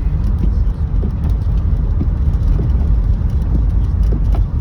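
Steady low rumble of a car driving on a snowy road, heard inside the cabin: tyre and engine noise with faint scattered ticks.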